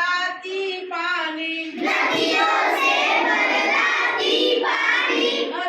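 Children singing a Hindi rhyme in a sing-song chant, the voices fuller and louder from about two seconds in.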